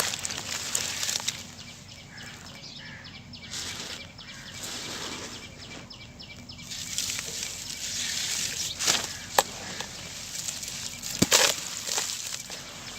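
Sand-cement crumbling and breaking apart with a gritty crunching, plus a few sharp cracks in the last third.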